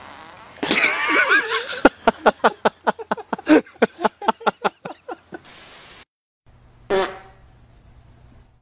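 A long sputtering fart: a rapid string of separate pops, about five or six a second, lasting some three and a half seconds. A short, loud blast follows near the end.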